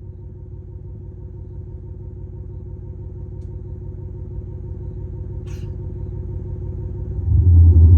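Low, steady engine-like rumble with a fine even pulse from a Prius PHV's exhaust speaker, a synthetic engine sound at idle, growing slowly louder. About seven seconds in it jumps sharply louder, as in a rev.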